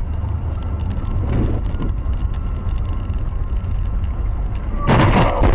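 Vehicle on the road: a steady low rumble of road and engine noise, with a short, loud, harsh burst of noise near the end.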